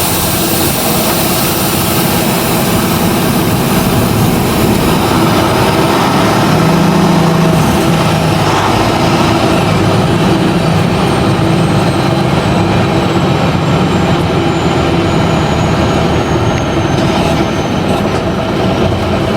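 Semi-truck's diesel engine running steadily as the truck pulls forward at low speed, a loud continuous drone with a brief rise in its low note partway through.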